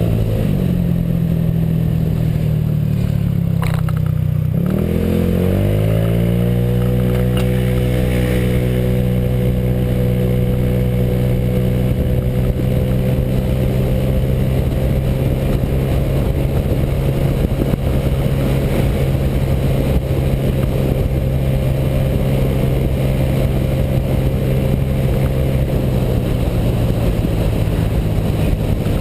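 Honda PCX scooter's single-cylinder four-stroke engine, fitted with a J.Costa variator, running on the move. The engine note falls over the first few seconds, rises again about five seconds in as it accelerates, then holds a steady drone and eases off a little near the end.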